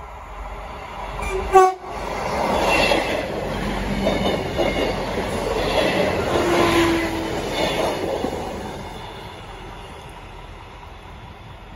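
Class 158 diesel multiple unit giving a short horn blast about a second and a half in, then passing close by with its wheels clattering over the rails, the noise fading away as it goes.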